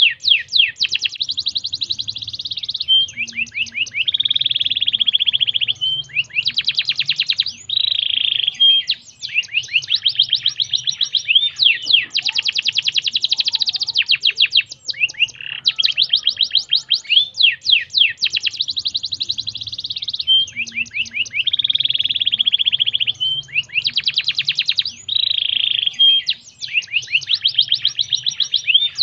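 Domestic canary singing a long, unbroken song of fast trills and rolls. Each phrase is a rapid run of repeated notes, and it switches to the next every second or two with hardly a pause.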